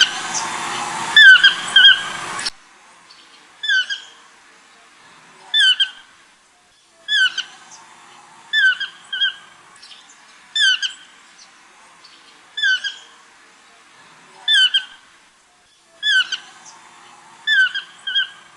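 A bird repeating a loud, harsh squawking call every one and a half to two seconds, sometimes two in quick succession. A rushing background noise runs under the calls for the first two seconds or so, then cuts out.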